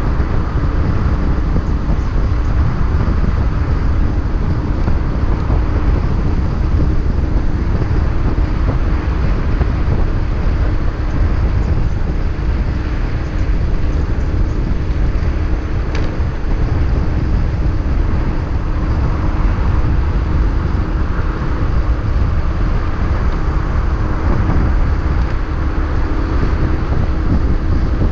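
Motorcycle riding at a steady pace: the engine runs evenly under a dense, loud rumble of wind and road noise.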